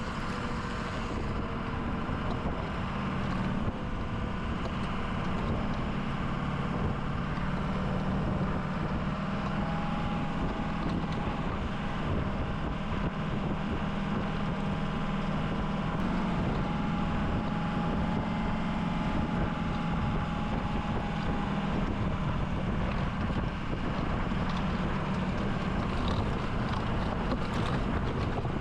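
Plow truck's engine running steadily, a constant drone with no change in speed.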